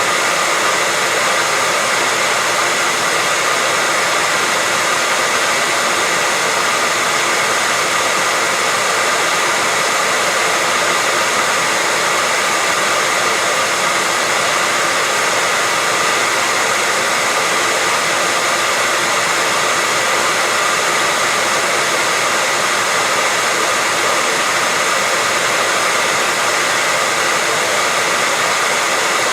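Hair dryer running steadily: an even rushing hiss with a faint steady whine in it, unchanging throughout.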